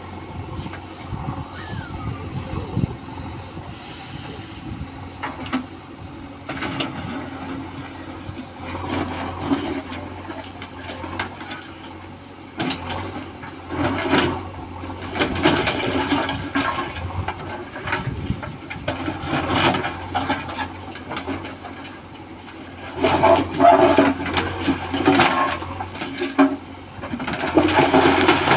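Heavy machinery running under a steady diesel hum while stones clatter and slide, with several louder rushing bursts of rock noise in the second half, as a JCB loads stones into tractor trailers.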